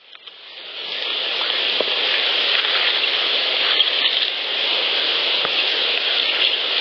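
Steady hiss of a heavily amplified outdoor field recording, fading in over the first second, with a few faint ticks scattered through it.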